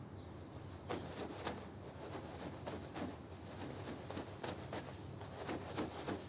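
A carpet being scrubbed during washing: a run of short, irregular scrubbing strokes starting about a second in, over a low steady hum.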